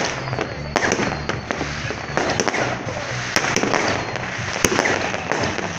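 Fireworks going off: many sharp bangs in quick, uneven succession over continuous crackling from rockets and firecrackers bursting at once.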